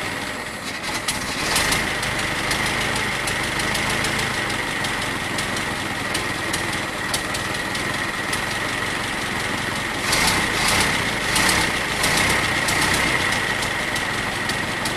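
1915 Ford Model T four-cylinder engine running steadily at idle, with a steady high whine alongside. There are a few sharp ticks about a second and a half in and again around ten to eleven seconds.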